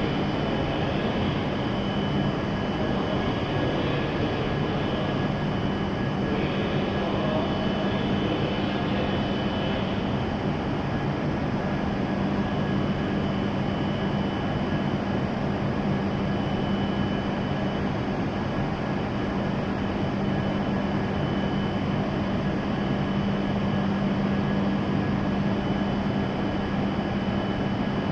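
Steady hum of an E7-series Shinkansen train standing at the platform, its onboard equipment running: a low drone with thin high whines over a constant rush of noise.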